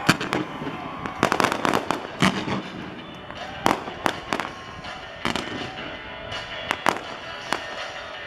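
Aerial fireworks going off: a dozen or so sharp bangs at irregular intervals, with crackling between them and music playing underneath.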